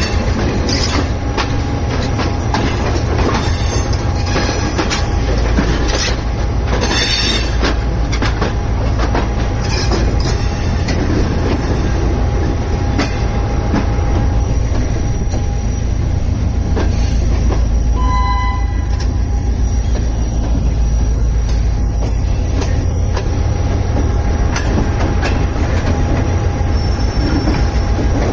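Shah Latif Express passenger train running along the track: a steady heavy rumble with repeated clicks of the wheels over rail joints and a thin squeal from the wheels. A short pitched sound stands out about two-thirds of the way through.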